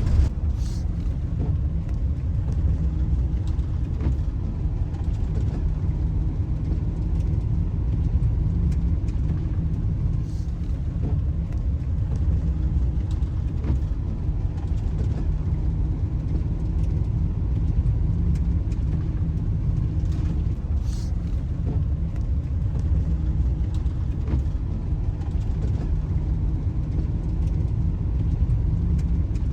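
A van driving, giving a steady low rumble of engine and road noise with occasional faint ticks.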